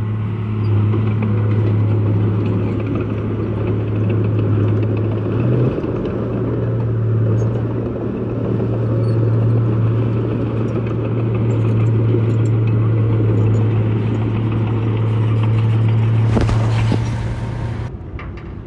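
Heavy diesel engine of an earth-moving machine running steadily under load, with a brief hiss about sixteen seconds in and the engine note dropping near the end.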